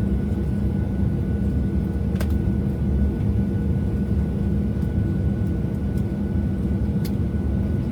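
Steady drone of a Boeing 737-700 heard from inside its cabin on the ground, with a thin steady whine above the low hum. Two faint clicks come about two seconds in and near the end.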